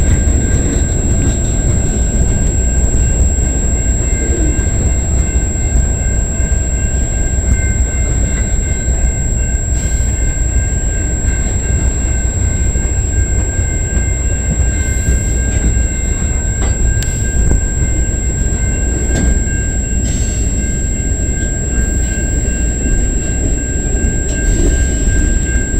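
Freight train cars rolling past: a steady heavy rumble of wheels on rail with a faint steady high whine and occasional clanks from the cars.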